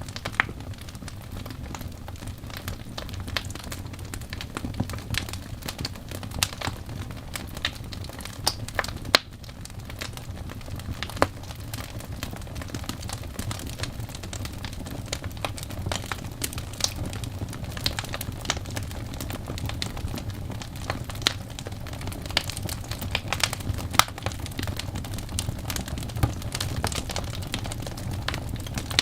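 Wood fire burning in a fireplace: a steady low rumble of flames with irregular crackles and pops, and a momentary drop in level about nine seconds in.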